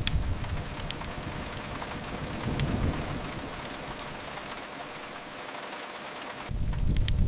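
Steady rain with scattered sharp crackles of a wood fire. A low rumble fades over the first second, swells briefly midway and comes back strongly near the end.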